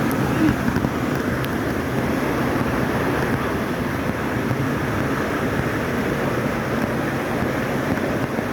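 Steady rushing of a waterfall or fast stream, a constant even noise.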